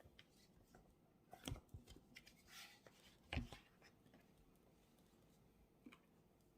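Faint handling sounds at a study desk: a few light knocks and clicks and a short rustle, with the loudest knock about three and a half seconds in.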